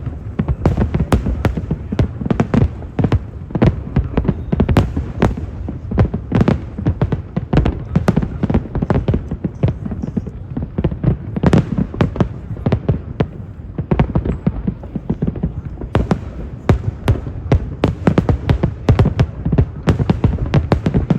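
Fireworks display going off: a dense, irregular string of bangs, several a second, over a steady low rumble.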